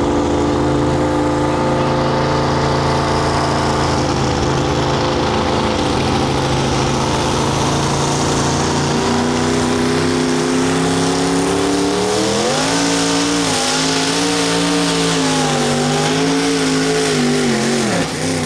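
Super modified two-wheel-drive pulling truck's engine running hard under load during a pull: a steady note at first, then rising in pitch about two-thirds of the way in and wavering up and down, before falling away sharply near the end.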